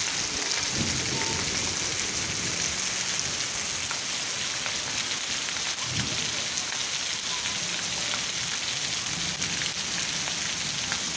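Heavy rain pouring steadily, a dense even hiss of rain on roofs and flooded streets.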